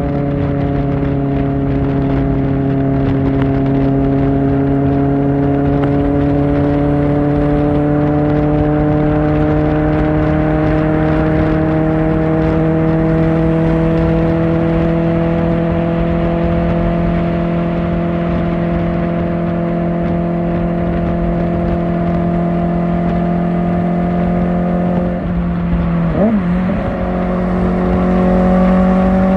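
Kawasaki Ninja ZX-4R's inline-four engine through an Akrapovic exhaust, under way at fairly steady revs that climb slowly. About 26 s in the note briefly dips and wavers in a quick gear change, then settles higher.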